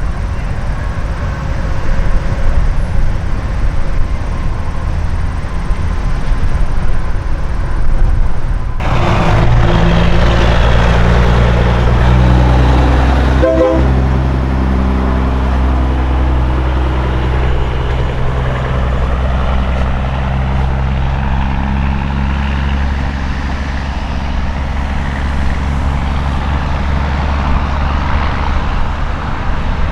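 Heavy semi truck's diesel engine running as the rig moves through a truck stop, a deep steady drone that changes pitch partway through. Before that, general truck traffic noise.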